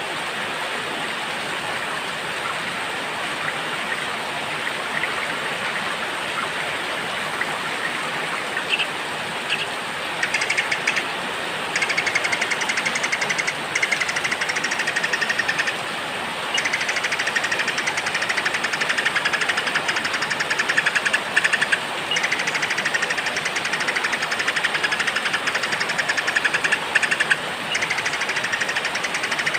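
Steady rain falling, with a small songbird singing rapid, buzzy trills in repeated phrases from about ten seconds in.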